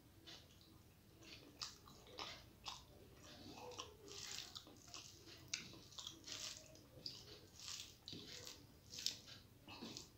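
Close-up chewing and wet mouth smacks of rice and curry eaten by hand, in short irregular clicks, with soft squishing as fingers mix rice on the plate; faint.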